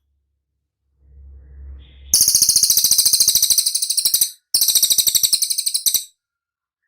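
Cililin bird singing: two loud, rapid, high-pitched trills of evenly spaced notes, each about two seconds long with a short break between them. A faint low rumble comes just before the first trill.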